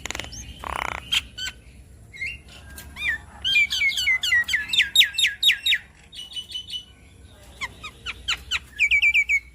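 Javan myna singing: sharp clicks and squawks, then a fast run of repeated down-slurred whistled notes, about five a second, and a shorter run of the same notes near the end.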